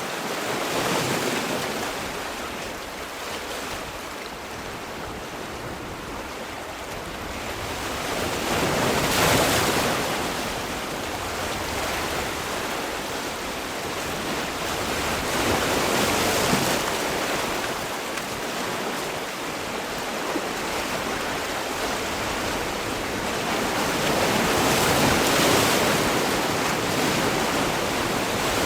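Sea waves rolling in and washing back with a continuous rushing sound. It swells to four surges, about every seven to nine seconds.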